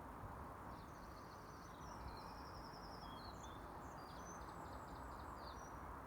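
A songbird singing a quick, varied song of high notes and short trills for about five seconds, over a steady low background hiss.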